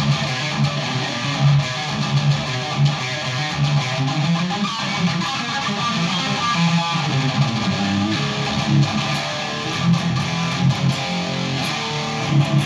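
Electric guitar played through a Randall Satan 120 high-gain amp head: a distorted riff with repeated low chugging notes, stopping right at the end.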